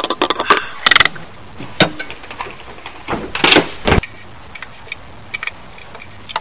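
Hand tools being handled and rummaged through: sharp metallic clicks and clunks, with two louder rattling, scraping stretches about one second in and from about three to four seconds in.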